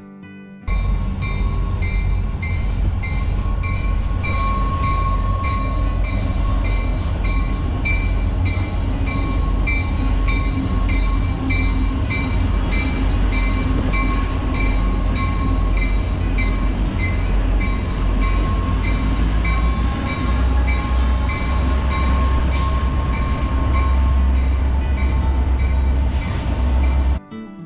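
CN freight train rolling across a steel truss rail bridge: a heavy steady rumble with an even rhythmic clatter of wheels over the rails and steady high ringing tones, one sliding up in pitch late on. It cuts off suddenly near the end.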